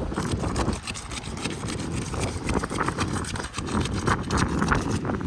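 Camelot II asphalt shingles being pried up and unsealed, a rapid, irregular run of scraping, crackling and tearing as the strong bonding strip gives way. The bonding strip is tearing chunks out of the shingles and damaging them.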